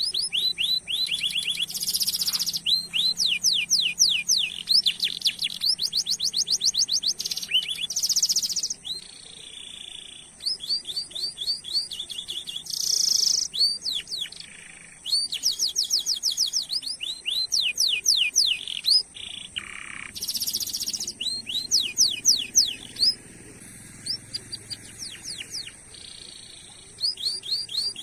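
Domestic canary singing: long rolling trills of rapidly repeated sweeping notes, broken every few seconds by short buzzy bursts.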